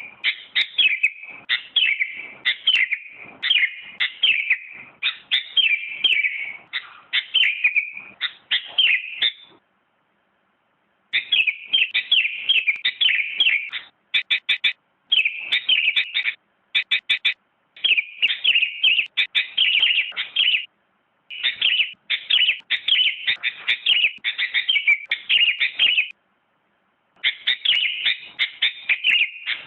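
Sooty-headed bulbul (kutilang) singing: runs of quick, chirping notes in phrases a few seconds long, broken by short silent gaps.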